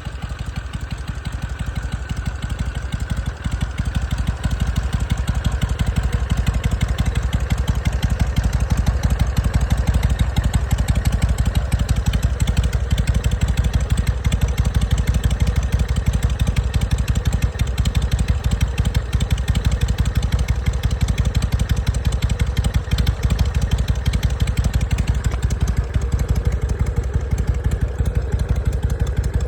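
Harley-Davidson Sportster 883 V-twin engine idling steadily, its level building a little over the first few seconds before holding even. It is running smoothly with a freshly replaced carburetor insulator and battery.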